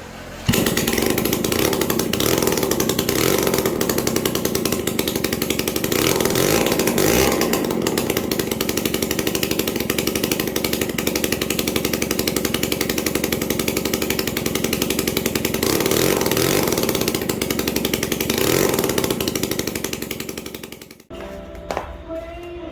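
Rebuilt Yamaha Poet motorcycle engine running with a fast, rasping beat, revved up twice. It starts suddenly just after the beginning and cuts off near the end.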